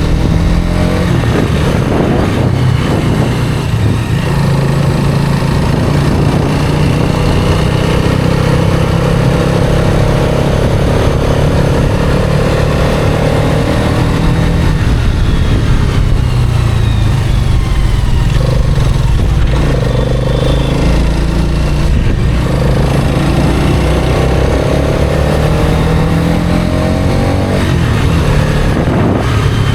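Hero Karizma XMR's 210 cc single-cylinder engine running under way, its pitch climbing steadily several times as the bike accelerates, with steady running in between.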